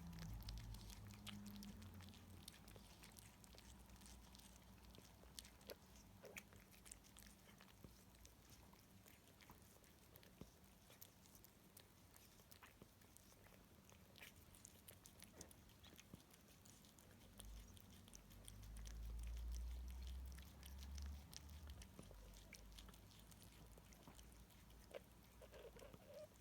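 Near silence: quiet room tone with faint scattered small clicks, and a low rumble about two thirds of the way through.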